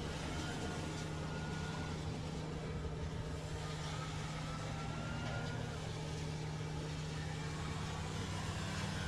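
A steady engine drone with a constant low hum that does not change in pitch or level.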